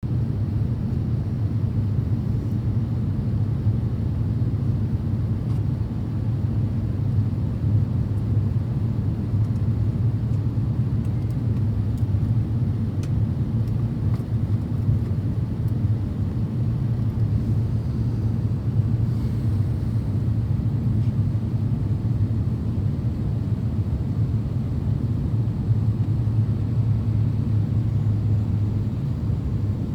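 Steady low rumble of engine and airflow noise heard inside the cabin of an Airbus A350-900 in flight.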